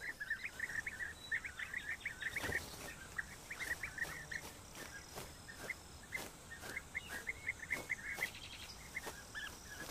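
European bee-eaters calling: a steady stream of short, liquid chirps, several a second, in loose bursts, with an occasional soft tap.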